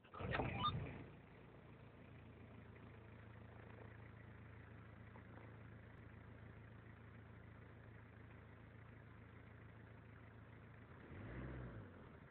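Nissan Primera's CD20T 2.0-litre four-cylinder turbo-diesel starting up in the first second, then idling steadily. A brief rev comes about eleven seconds in.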